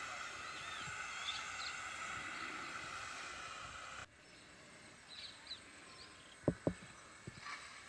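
Faint outdoor ambience of insects droning steadily and birds chirping. About four seconds in it cuts off abruptly to a quieter background with a few chirps, and two sharp thumps come close together near the end.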